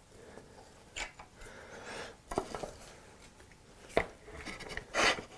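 Parts of a foot-powered mortiser being handled during reassembly: a few scattered knocks and clinks, the sharpest about four seconds in, with light rattling between.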